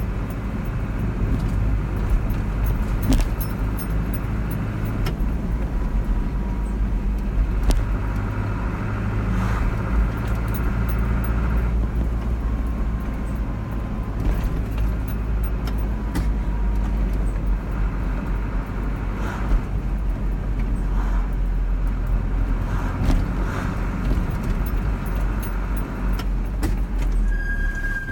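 Car driving along a road: a steady low rumble of engine and tyre noise, with a short high beep near the end.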